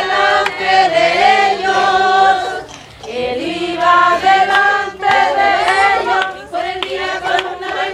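A congregation of mixed voices singing a Spanish hymn chorus together, the song about Pharaoh letting the people go into the desert. The singing dips briefly about three seconds in, then resumes.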